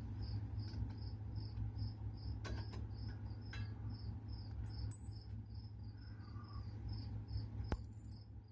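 A cricket chirping steadily, about three short high chirps a second, over a low steady hum, with a few sharp clicks.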